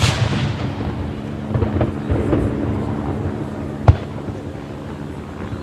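Aerial fireworks shells bursting. A burst right at the start trails off into a fading crackle and rumble, and a second sharp bang comes about four seconds in.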